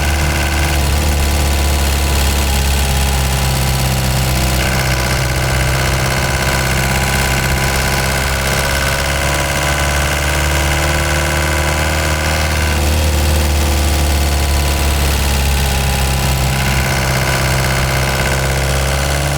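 Ford Transit Mk5 van engine running steadily, with a slow rise in pitch in the second half.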